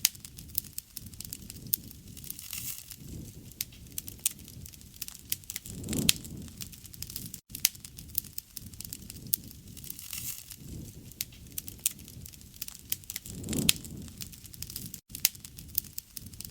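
Wood fire crackling, with many sharp pops and snaps over a low rush of flames that swells now and then. The sound cuts out briefly twice.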